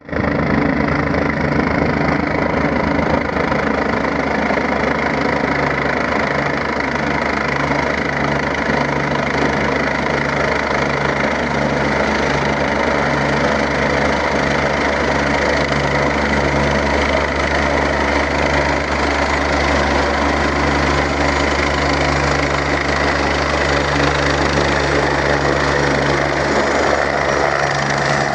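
Helicopter running steadily, a continuous loud engine and rotor drone with a faint pulsing beat in its low hum.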